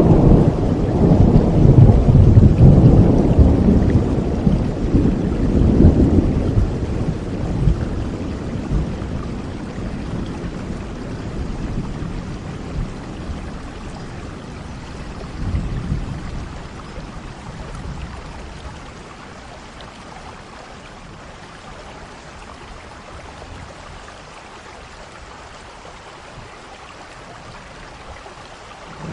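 Steady rain with rolling thunder: a long low rumble through the first several seconds, a shorter one about halfway, then the thunder dies away, leaving the rain on its own.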